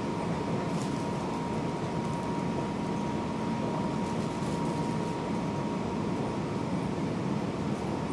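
Seibu 6000 series train running at steady speed, heard from inside a motor car: an even rumble of wheels and running gear with a thin steady tone running through it.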